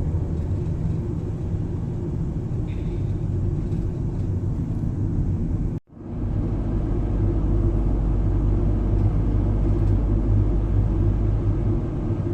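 Steady low rumble of a van's engine and road noise heard from inside the cabin. The sound drops out abruptly for a moment about halfway through, then comes back.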